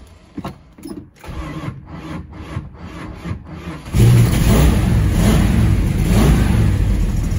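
1978 Plymouth Volare Super Coupe's V8 being cranked by its starter in an even, pulsing rhythm. About four seconds in, the engine fires and catches, then runs loudly as it is revved up and down. This is a long-neglected engine being restarted.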